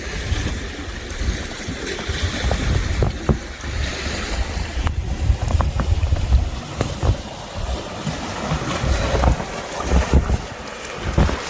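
Footsteps crunching in snow, with wind buffeting the microphone in gusts.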